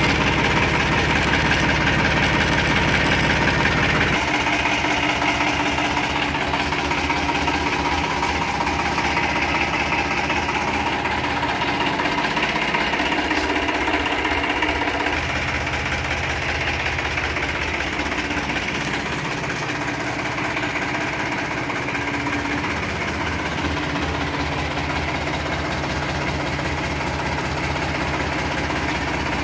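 TAFE Massey Ferguson 7250 DI tractor's three-cylinder diesel engine running steadily, its low note changing about four seconds in and again around the middle.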